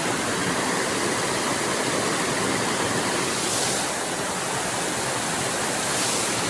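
Waterfall: a steady rush of falling water, with brief hissy swells about three and a half seconds in and near the end.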